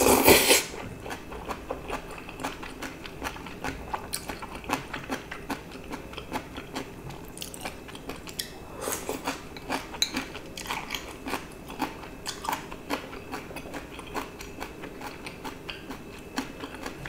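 Close-miked eating: a loud slurp of a mouthful of thin wheat noodles in sauce right at the start, then steady wet chewing with many small mouth clicks.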